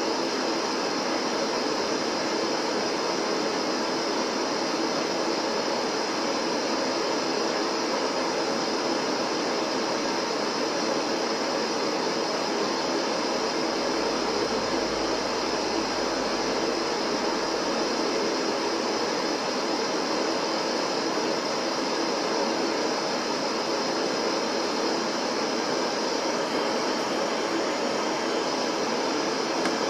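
A steady, even hiss of a generated colour-noise track, the kind played on ghost investigations as a background for hearing footsteps or voices. A faint low rumble rises under it for a few seconds in the middle.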